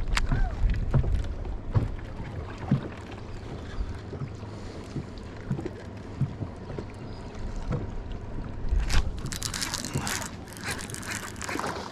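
Wind rumble on the microphone and scattered knocks and handling sounds on a fishing boat. About nine seconds in come roughly three seconds of dense splashing and rattling as a small bass is brought in.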